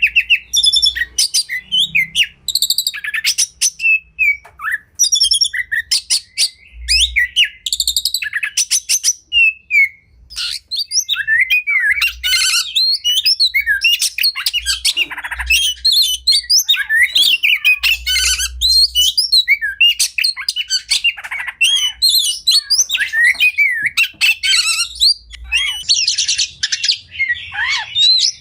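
Oriental magpie-robin (kacer) singing a fast, varied song of whistles, rapid trills and harsh squawking notes, one phrase after another with hardly a break.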